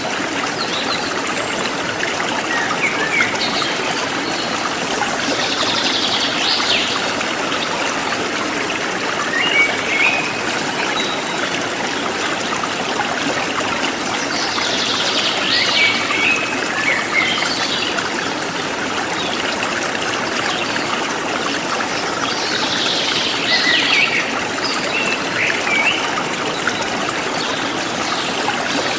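A stream flowing with a steady trickling rush, with birds chirping in short bursts every several seconds.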